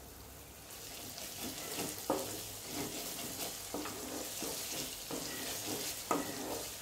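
Ground masala paste with green chilli and fresh curry leaves sizzling in hot oil in an aluminium kadai, a wooden spatula scraping and turning it about once a second. The sizzle builds in the first second. It is being fried on low flame until its raw smell cooks off, before the chicken goes in.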